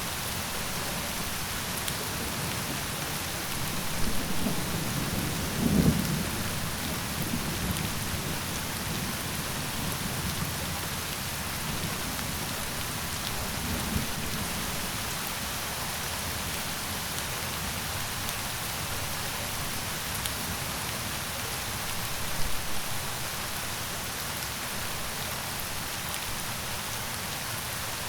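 Steady heavy rain falling, with low rumbles of thunder rising around four to six seconds in, briefly near the middle, and again a little past twenty seconds in.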